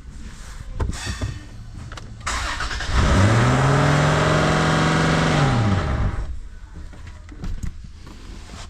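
2022 Toyota 4Runner's 4.0-litre V6 cranked by the starter, catching and flaring up, running steadily for about two and a half seconds, then winding down as it is shut off. A few clicks come about a second in, before the cranking.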